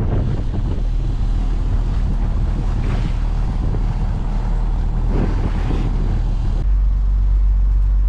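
A trawler's engine running steadily underway, with wind buffeting the microphone. About two-thirds of the way through the wind noise drops away and the low engine hum gets louder.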